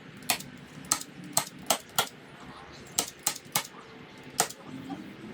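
A staple gun fired again and again, driving staples to fasten carpet to the boat's plywood: nine sharp, irregularly spaced snaps in about four and a half seconds.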